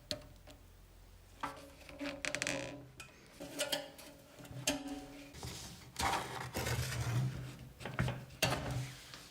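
Metal parts being handled in a workshop: a series of sharp clinks and knocks with bursts of scraping and rubbing.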